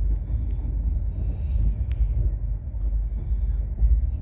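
Low, steady rumble of a passenger train rolling into a station, heard from inside the coach, with one sharp click about two seconds in.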